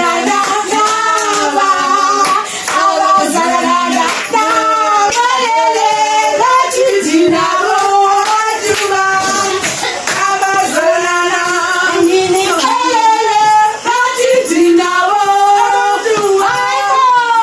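Women and children singing together, with hand claps keeping time.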